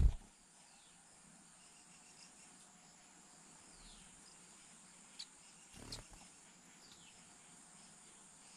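Insects chirring steadily in a thin high drone, with a few faint short falling chirps. A dull low thump comes right at the start and a softer one about six seconds in.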